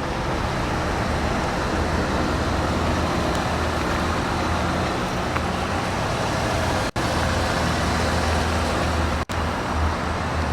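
Cadillac Northstar 4.6-litre V8 idling steadily, a low hum under a broad wash of noise. The sound cuts out briefly twice in the second half.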